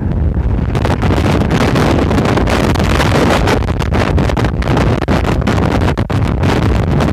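Strong gusty mistral wind buffeting the microphone, a loud, rumbling roar with quick flutters and brief dips.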